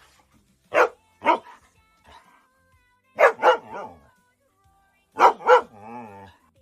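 A dog barking in pairs: three double barks about two seconds apart.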